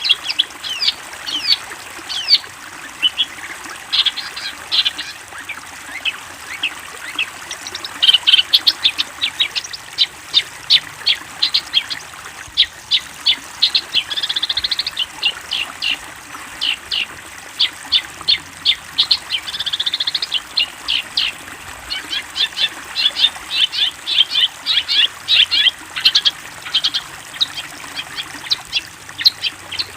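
Long-tailed shrike (cendet) song: a rapid run of short, sharp chattering notes, several a second, broken twice near the middle by short buzzy trills.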